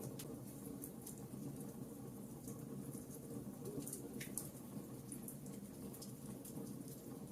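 Wood logs burning in a fireplace: scattered sharp crackles and pops over a steady low rumble of the flames, with one louder pop a little past four seconds in.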